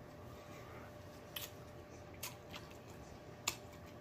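A person chewing a mouthful of food, close to the microphone, with a few sharp mouth clicks spread through it.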